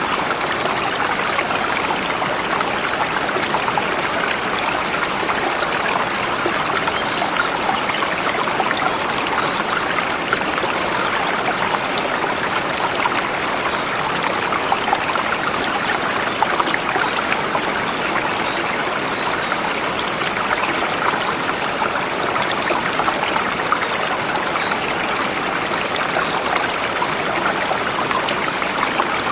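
A forest river flowing over rocks: a steady rush of running water.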